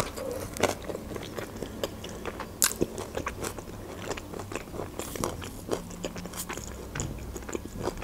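A bite into a lavash-wrapped shawarma at the start, then close-miked chewing with many irregular, sharp crunchy clicks.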